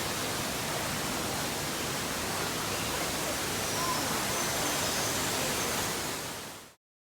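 Steady rushing noise like falling water, even and unbroken, cutting off abruptly near the end.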